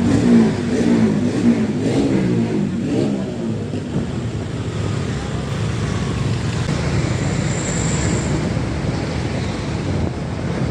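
Diesel truck engine passing close by on the road, its pitch shifting for the first few seconds, then settling into a steady, slightly quieter rumble of engine and road noise.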